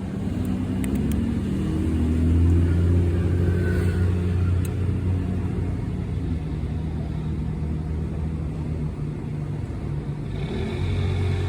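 A motor vehicle engine running steadily. Its pitch rises a little in the first couple of seconds, then settles into an even low drone.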